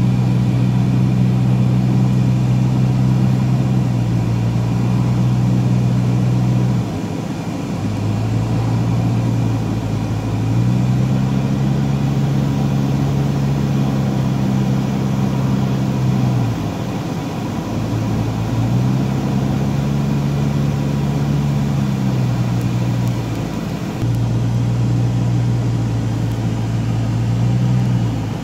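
A car's engine and road noise heard from inside the cabin while driving: a steady low hum that drops and rises in pitch several times as the car slows and speeds up.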